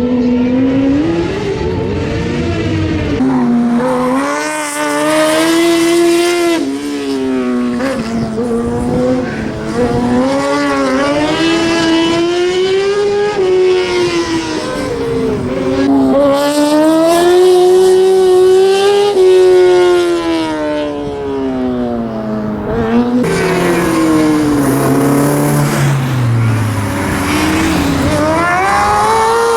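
A Fiat Bravo race car's engine running hard through a slalom course. Its pitch climbs and falls again and again as the driver accelerates and lifts between gates, with a few sudden drops in pitch.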